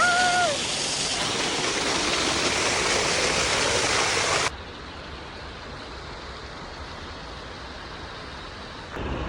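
Small waterfall splashing close by: a steady, loud rushing hiss with a brief pitched note at the very start. About four and a half seconds in it cuts abruptly to a quieter, duller rush of water.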